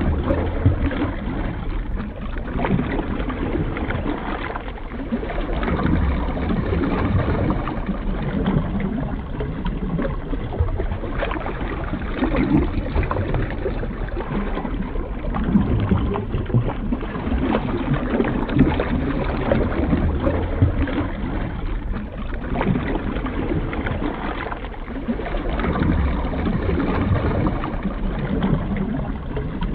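Water sloshing and gurgling around a camera in the sea, a continuous rush that swells and eases every few seconds.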